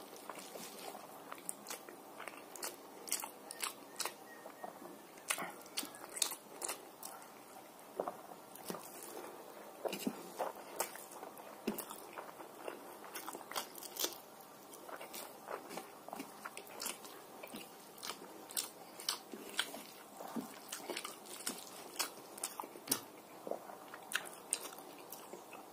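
A person chewing mouthfuls of rice with fried greens, eaten by hand, with many short irregular mouth clicks and smacks, several a second.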